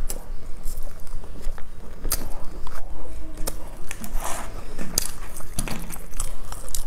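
Close-miked chewing of a flaky bread pastry: irregular soft crackles and wet mouth clicks, a few louder crunchy bursts about four to five seconds in, over a low steady hum.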